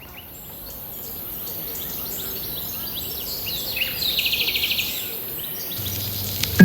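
Songbirds chirping and singing outdoors, fading in over the first couple of seconds, with a fast even trill about four seconds in, over a steady high hiss.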